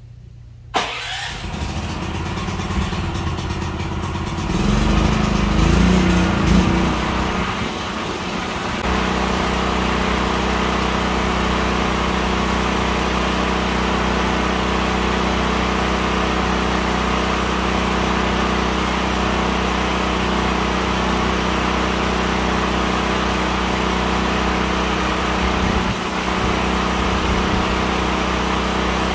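A motor starts up suddenly and runs unevenly and louder for a few seconds, then settles into a steady running hum.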